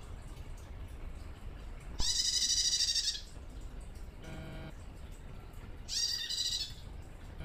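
A female prenjak tamu gives two harsh, buzzy calls of about a second each, a few seconds apart. This is the "ngecir" call a young hen uses to call a male. A fainter, lower-pitched call comes once in between and again at the very end.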